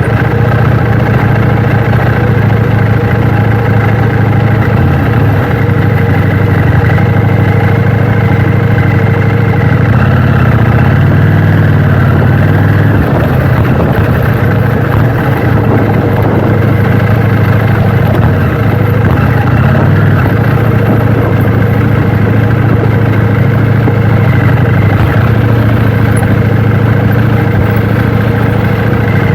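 KTM 790 Duke motorcycle's parallel-twin engine running steadily, its note shifting for a few seconds in the middle before settling back.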